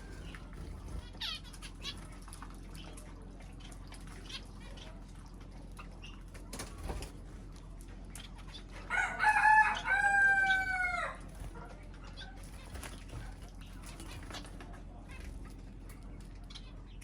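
A rooster crows once, a call of about two seconds in several pitched segments that fall away at the end, near the middle. Faint scattered clicks are heard otherwise.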